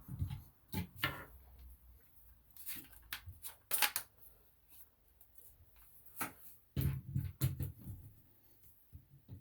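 Scattered rustles and light clicks of hands handling sink drain parts, the pop-up drain assembly being fitted into the sink.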